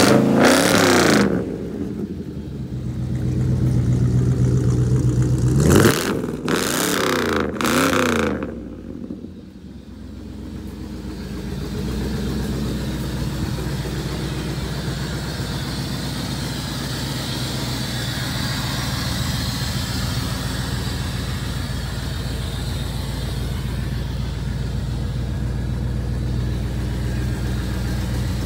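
Fuel-injected Corvette V8 in a 1950 Mercury lead sled, revved through its dual exhaust several times in the first nine seconds, then settling to a steady idle.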